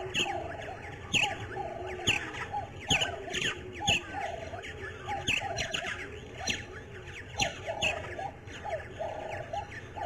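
Birds calling: many short, high chirps that slide downward, coming several times a second at times, over a lower, repeated call.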